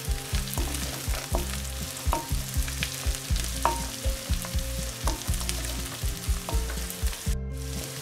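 Raw peanuts, onions and green chillies sizzling in oil in a kadai while a wooden spatula stirs and scrapes them around the pan.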